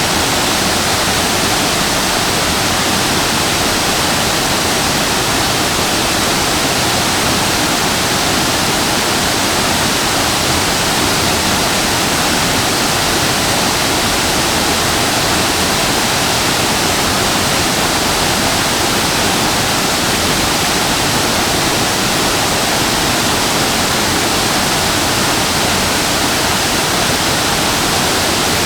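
Waterfall crashing steadily into its plunge pool, an even, unbroken rush of falling water.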